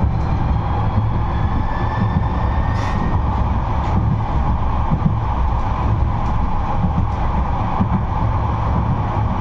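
71-628-02 tram running along the track: a steady rumble of wheels on rails. A faint rising whine runs through the first few seconds, and there are a few light clicks.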